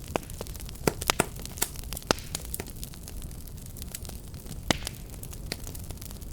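Wood fire burning with a steady low rumble and frequent sharp crackles and pops, the loudest about a second in, again near two seconds and near five seconds.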